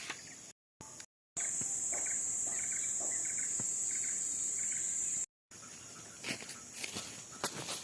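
Forest insects, such as cicadas or crickets, make a loud, steady, high-pitched drone for about four seconds. A softer chirp repeats a little under twice a second beneath it. The drone is set between brief cuts to silence, and quieter forest background with scattered clicks and knocks lies around it.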